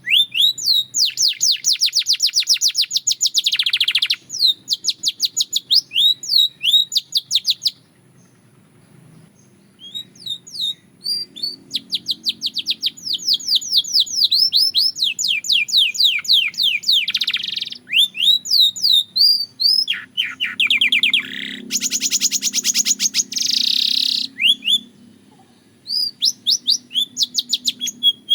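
Domestic canary singing in long, fast trills of rapidly repeated chirping notes, broken by a short pause about eight seconds in before the song resumes.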